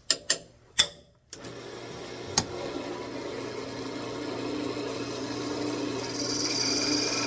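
A few knocks, then a wood lathe starts about a second and a half in and runs with a steady hum. A parting tool cuts into the spinning wood to part off the turned ornament; the cutting grows gradually louder, with a higher hiss from about six seconds in.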